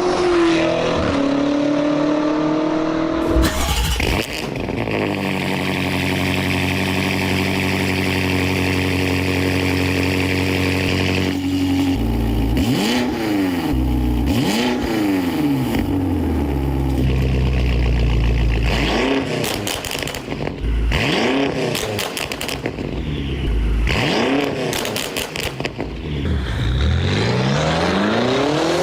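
BMW F90 M5's twin-turbo V8 through an aftermarket exhaust, in several cut-together clips. It holds a steady engine note for several seconds, then revs up and down repeatedly, every second or two, from about twelve seconds in.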